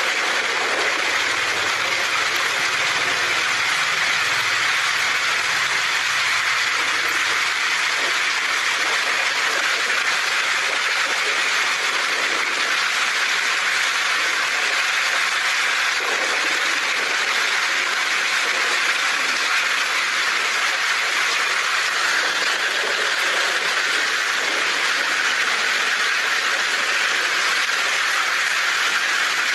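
Heavy rain drumming steadily on a tin roof, an even hiss with a faint low rumble in the first few seconds.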